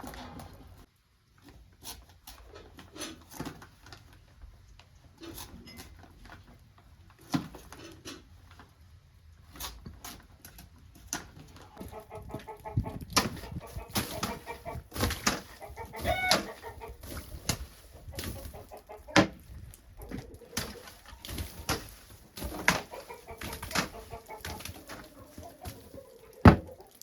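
Chickens clucking, with many sharp knocks and taps scattered throughout and one loud knock near the end.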